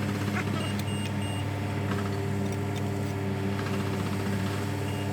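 A heavy diesel engine running steadily at an even speed.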